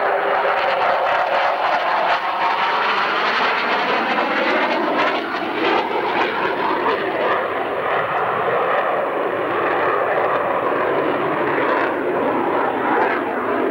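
CF-18A Hornet's twin jet engines: loud, steady jet noise as the fighter flies its display, the tone slowly sweeping up and down as it moves past.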